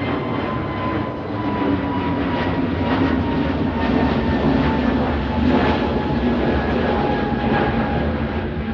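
Jet airliner engines at takeoff power: a steady rumble with a high engine whine that falls slowly in pitch as the aircraft passes, and irregular crackles in the roar.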